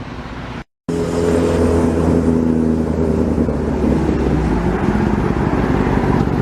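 Sportbike inline-four engine running at steady revs, its note dipping a little and rising again near the end. It starts abruptly just under a second in, after a short break.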